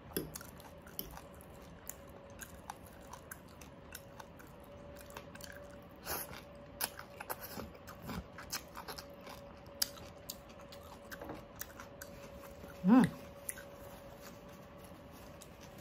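A person chewing and biting food during a mukbang, with many small scattered clicks and mouth noises. A short vocal sound comes about thirteen seconds in.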